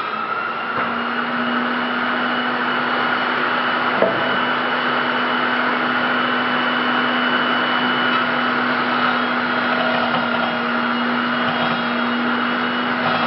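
Electric motor of a workshop power tool running steadily at high speed with a constant whine, and a single sharp click about four seconds in.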